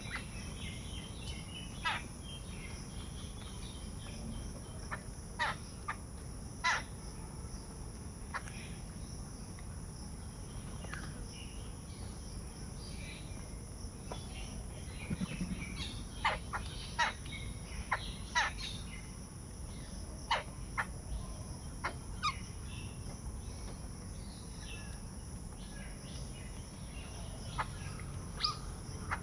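Steady high-pitched insect buzzing, crickets or cicadas, with many short, scattered bird calls, a cluster of them in the middle.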